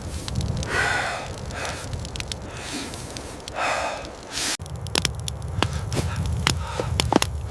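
A person breathing heavily, two long audible breaths, over a steady low rumble. After an abrupt break about halfway through, scattered sharp clicks and crunches follow.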